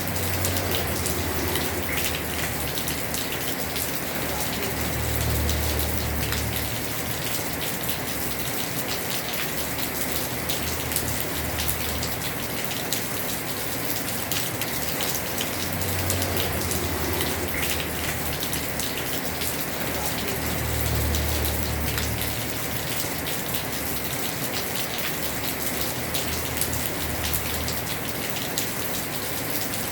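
Heavy rain falling steadily on a house roof, a dense hiss of drops. A low rumble swells and fades several times.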